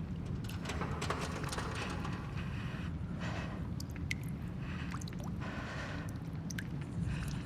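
Abandoned-building ambience: a steady low rumble with scattered small clicks and drips.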